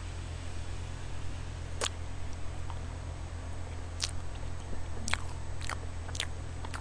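Close-miked chewing of soft roll cake, with about five sharp clicks spread through it, over a steady low electrical hum.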